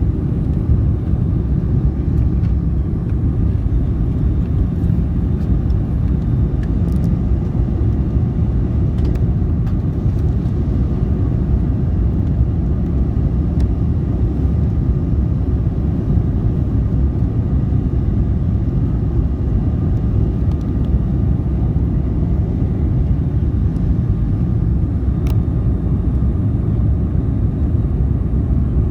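Steady low rumble of an Airbus A310-304 cabin during the climb after takeoff: engine and airflow noise heard from inside the passenger cabin, even and unchanging.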